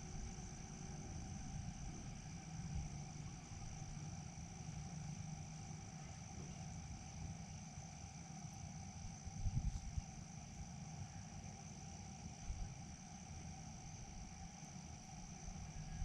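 Crickets and other insects chirring steadily in a night ambience, over a low rumble, with a few soft bumps about halfway through.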